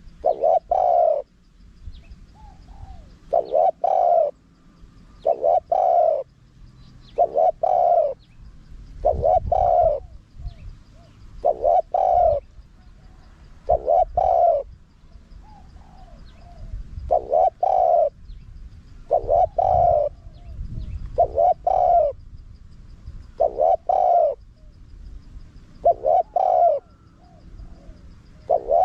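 Spotted dove cooing over and over, one short coo roughly every two seconds, with faint small notes between the coos.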